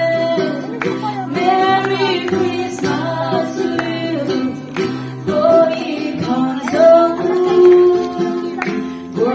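Singing with a strummed acoustic guitar: held sung notes over steady chords.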